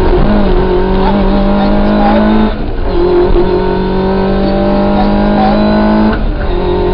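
Rally car engine running hard at high revs on a special stage, its note held high and rising slightly. It breaks off briefly twice, about two and a half and six seconds in, then picks up again at the same pitch.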